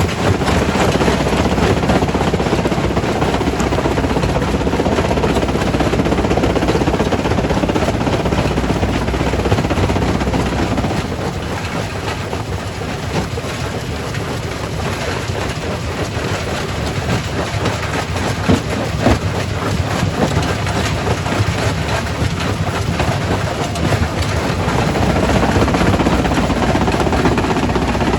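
Quarry primary rock crusher running, breaking stone in a steady dense rumble with constant clatter and knocking. It eases off somewhat in the middle and builds again near the end.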